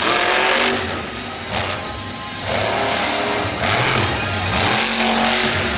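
Monster truck engine revving during a run, mixed with loud arena music over the PA. The noise drops back for a moment about a second in, then comes up again.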